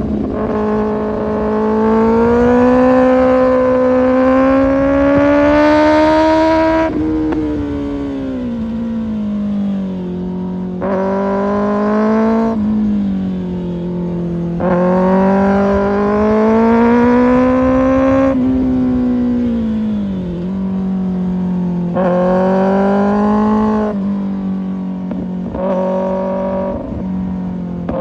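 Kawasaki ZX6R inline-four sport bike engine running through an Arrow Pro Race exhaust, revving hard under riding. Its pitch climbs under throttle for a few seconds and then drops back sharply, about nine times, with the longest climb early on.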